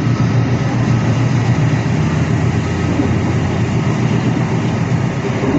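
A passenger train in motion, heard from inside a carriage: a steady running rumble with a low hum.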